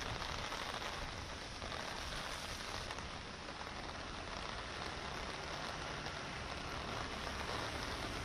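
Heavy monsoon rain falling steadily: a dense, even hiss with no break.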